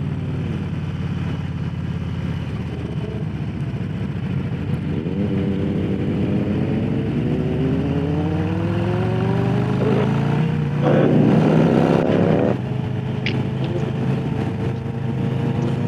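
Harley-Davidson Low Rider S's Milwaukee-Eight V-twin heard on board while riding, its pitch climbing steadily as it accelerates from about five seconds in. It is loudest around eleven to twelve seconds in, then drops back as the throttle eases.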